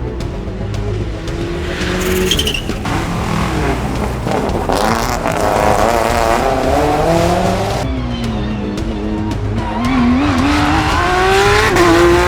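Rally car engines revving hard, the pitch climbing and falling through gear changes, with a steep climb in revs near the end. The sound changes abruptly between cuts, about three seconds in and again about eight seconds in.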